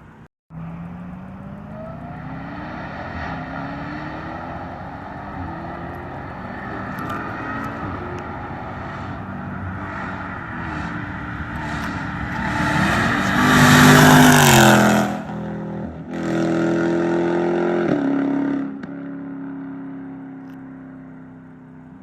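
Jeep Grand Cherokee Trackhawk's supercharged V8 accelerating hard, its pitch climbing repeatedly through the gears. It passes loudest about two-thirds of the way in, the pitch dropping as it goes by. A second loud, steady burst follows and cuts off suddenly, then the sound fades away.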